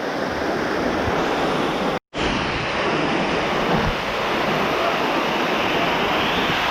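Steady rush of falling water, an even noisy roar. It is broken by a sudden silence of a split second about two seconds in.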